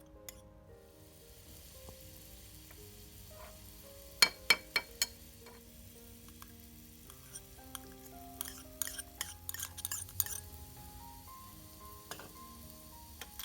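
Food sizzling in oil in a miniature frying pan, a steady hiss, with sharp clinks of small utensils: four loud ones close together about four seconds in and a quick cluster around nine to ten seconds. Background music plays underneath.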